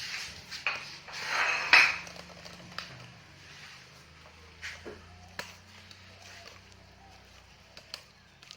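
Metal parts and tools clinking and scraping as they are handled: a rubbing scrape early on with the loudest clank near its end, then a few lighter separate clinks.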